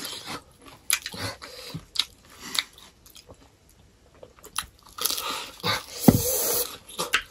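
Close-miked eating: chewing and mouth sounds of people eating rice and pork curry by hand, with scattered short crunches and clicks, a quieter pause midway and a louder stretch of chewing near the end.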